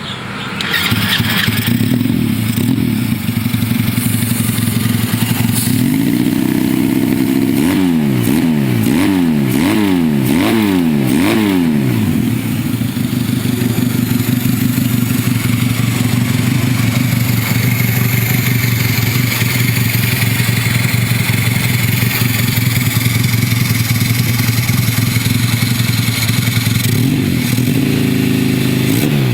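Two-cylinder engine of a Honda Baja mini bike running at idle, then revved in about five quick throttle blips in the middle, each rising and falling in pitch, before it settles back to a steady idle. It starts revving again near the end.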